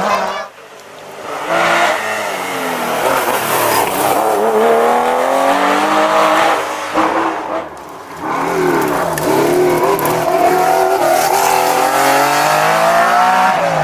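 Rally car engines at full throttle, revving up and falling back repeatedly through gear changes. The sound drops away briefly twice, about half a second in and again near eight seconds, before the next engine climbs back in.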